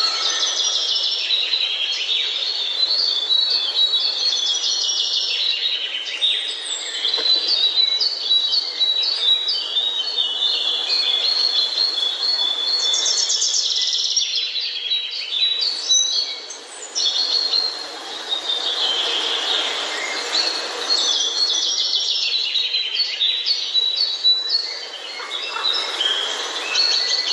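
Songbirds chirping and singing, several at once, in rapid repeated notes and trills over a steady background hiss.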